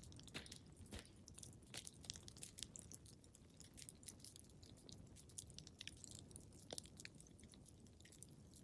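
Wood fire crackling in a fireplace: quiet, irregular pops and snaps over a soft low rumble.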